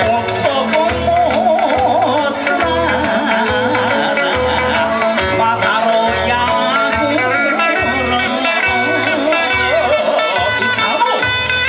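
Kawachi ondo folk music: a singer's wavering, heavily ornamented vocal line over guitar, with a steady low drum beat about twice a second.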